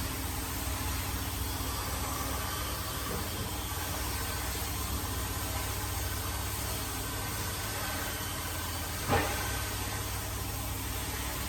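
Steady low machine hum in a workshop, with one sharp knock about nine seconds in.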